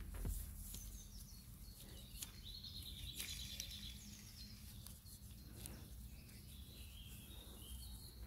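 Faint bird chirps in short trills over a low steady hum, with a few light clicks.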